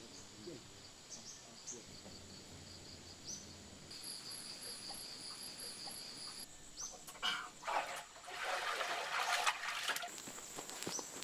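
Insects chirring with a steady high-pitched drone, broken by a quick pulsing stretch in the middle. Near the end there is a louder rustling, scraping noise lasting a few seconds.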